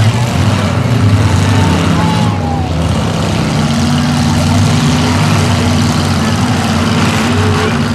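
Several demolition derby cars' unmuffled engines running loud together, a dense low drone that eases slightly for a moment a couple of seconds in.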